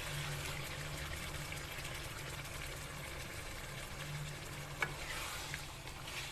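Quail and tomato masala frying in oil in a karahi, a steady sizzle as yogurt is added to the hot pan. A single sharp click about five seconds in.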